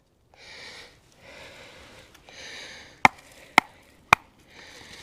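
Three sharp hatchet strikes on wood, about half a second apart, a little past halfway. They follow a few short rasping sounds.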